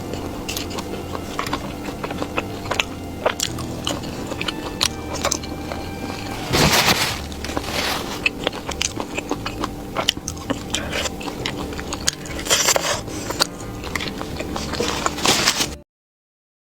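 Close-miked mukbang eating of crisp fried food: repeated bites and wet chewing with sharp crackles, and two loud crunching bites about a third and three-quarters of the way in. Everything stops abruptly near the end.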